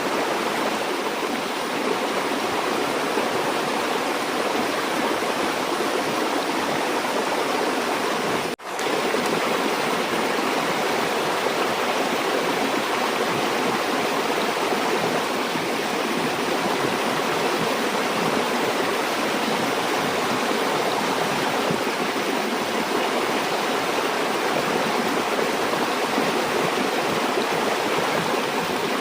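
Steady rushing of a flowing river. The sound cuts out for an instant about a third of the way through, then resumes.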